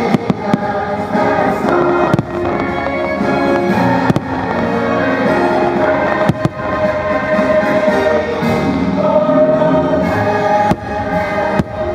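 Fireworks show soundtrack music with choir singing, played over the show's fireworks. Shells burst with sharp bangs now and then, about seven times.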